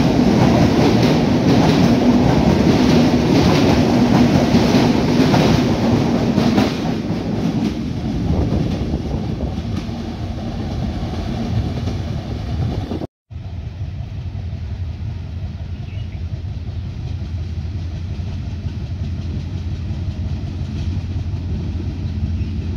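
Coaches of a diesel intercity express train passing at speed, their wheels clattering in a fast, even rhythm over the rail joints, fading after about seven seconds. After a brief drop-out about halfway, a steady low drone from another diesel train approaching.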